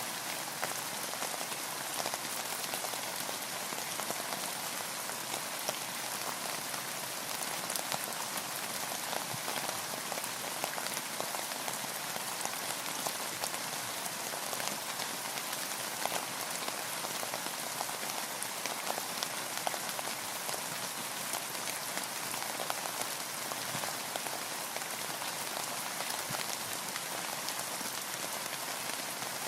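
Steady rain falling on a boat, a dense patter of many small drop ticks over an even hiss.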